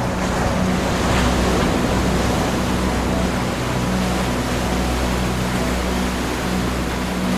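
Ocean surf: waves breaking and washing in as a steady rush, swelling a little about a second in, over a low steady hum.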